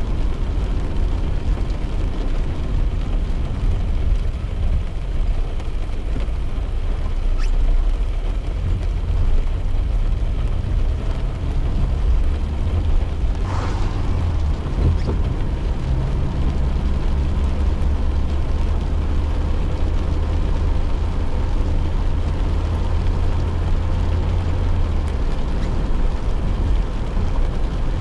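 Inside a car driving in rain: a steady low rumble of engine and tyres on the wet road under a light hiss of rain. There is one brief sharp sound about 13 seconds in.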